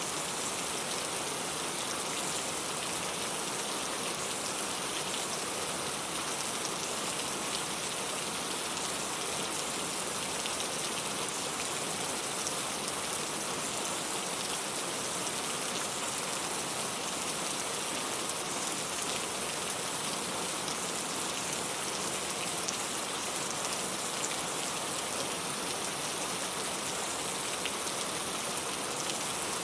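Steady rain falling, an even hiss of many drops with faint patter, unchanging throughout.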